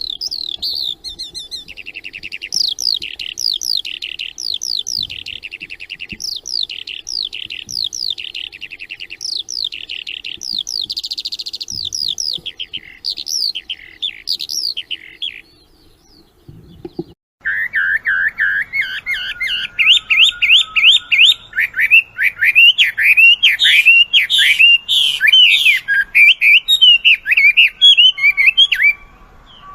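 Songbird singing fast, varied phrases of high chirps and trills. A little past halfway the song breaks off briefly, with a low thump, and a second songbird's song takes over, louder, with quick rapid notes that rise and fall.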